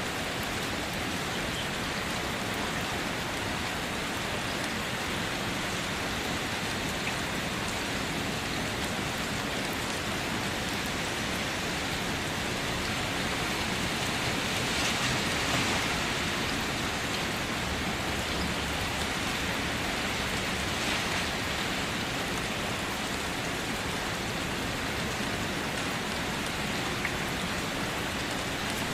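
Steady rainfall pattering on surfaces, an even hiss with scattered individual drops, swelling slightly about halfway through.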